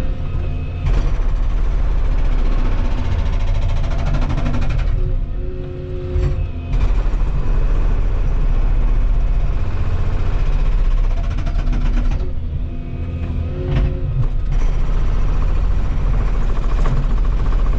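Volvo 235EL excavator working hard, its engine and hydraulics loud in three long stretches with a fast rattle, broken by two short pauses where a steadier hydraulic hum comes through.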